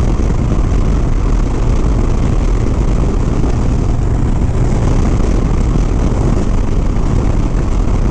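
Harley-Davidson Sport Glide V-twin motorcycle cruising at a steady speed, with the engine drone blended into steady wind noise on the rider's microphone.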